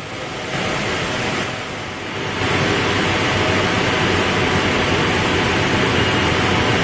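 Steady hiss of heavy rain, growing louder about half a second in and again at about two and a half seconds, then holding level.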